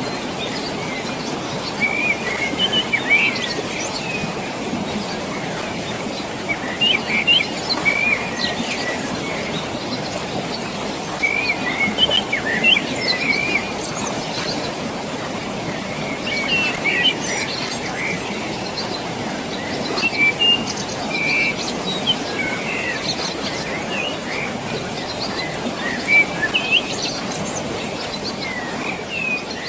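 Steady rushing of water from a valley below, with small birds chirping in brief bursts every few seconds over it.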